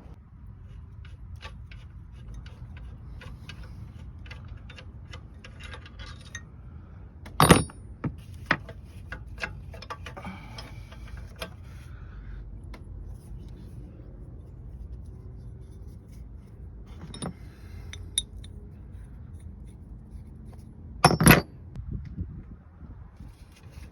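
Scattered metallic clinks and taps, like tools or metal parts being handled, over a low steady rumble. Two loud knocks come about seven seconds in and near the end.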